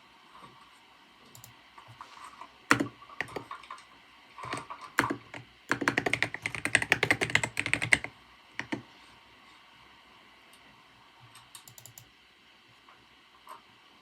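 Typing on a computer keyboard. A few scattered keystrokes lead into a fast run of typing lasting about two seconds, followed by a few more isolated taps, over a faint steady hiss.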